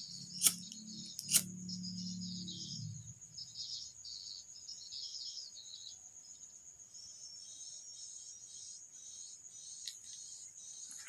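Insects, likely crickets, chirping steadily in fast pulses. In the first three seconds there is a low hum and two sharp clicks about a second apart.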